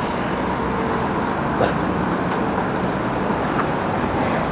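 Motorcycle engine running steadily at low speed as the bike rolls along slowly, under a steady rushing noise.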